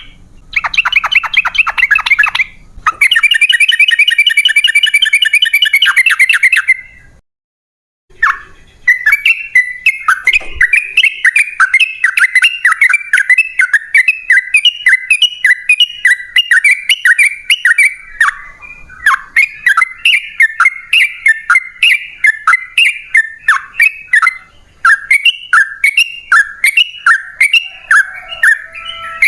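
Yellow-vented bulbul (trucukan) singing. It gives fast chattering rattles in the first seven seconds, cuts off for about a second, then sings a long run of short repeated chirping notes, about three or four a second.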